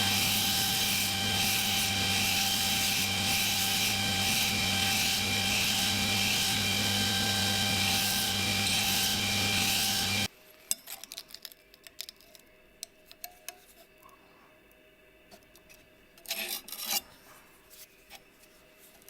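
A power tool working the knife steel, a steady grinding hiss over a constant motor whine, stops abruptly about ten seconds in. Then come scattered small clicks and knocks, with a short louder burst near the end.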